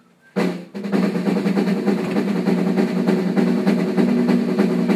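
Drum kit being played in a studio: a couple of single hits, then a fast, continuous drum roll with a steady ringing tone under it.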